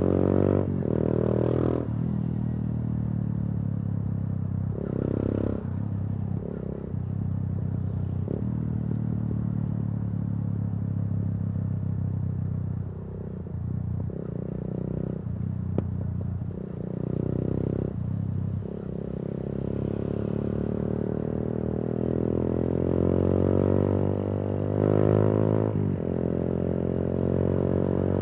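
Yamaha YBR 125G motorcycle's single-cylinder four-stroke engine running through an aftermarket Akrapovič exhaust while riding. The revs rise and fall with several short breaks at gear changes, and over one long stretch the pitch slowly falls as the throttle is rolled off.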